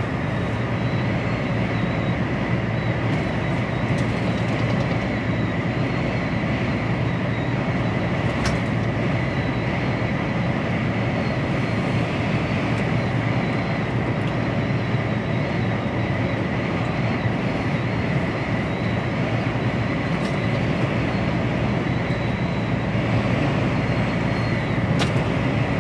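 Steady engine and road rumble inside the cab of an HGV lorry driving along at a constant speed.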